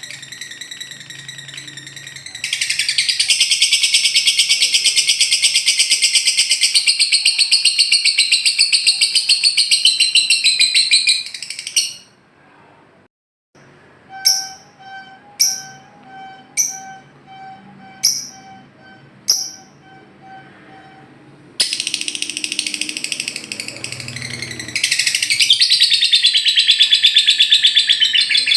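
Lovebird singing its 'ngekek', a long, very fast, high chattering trill held for several seconds at a time. The trill comes in two long bouts, broken in the middle by a quieter stretch of about six sharp separate chirps over a pulsing tone.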